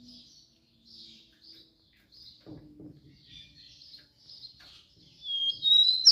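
Rufous-collared sparrow (tico-tico) chirping softly in short high calls, then near the end a louder clear whistled note that slides up into a few sharp bright notes.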